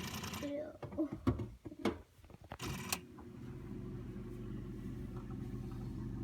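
Frigidaire side-by-side refrigerator clicking and rattling, several sharp clicks and short rattles over the first three seconds. After about three seconds a steady low hum sets in. The owner suspects the adaptive defrost control or the damper control assembly behind the clicking.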